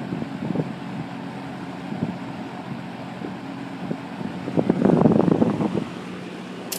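Electric box fan running on its medium setting, a steady motor hum and blade whoosh with air buffeting the microphone, louder for about a second near five seconds in. A sharp click just before the end, as the fan is switched off.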